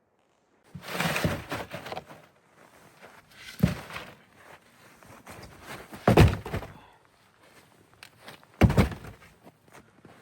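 Four heavy thunks, a couple of seconds apart, with fainter rustling and knocking between them.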